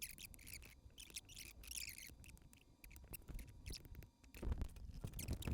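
Faint handling noise: scattered small clicks and light knocks, with a slightly louder cluster near the end.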